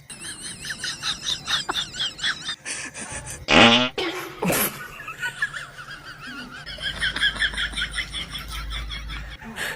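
Fart noises, the loudest a half-second blast about three and a half seconds in and another a second later, among bursts of high-pitched, wavering laughter.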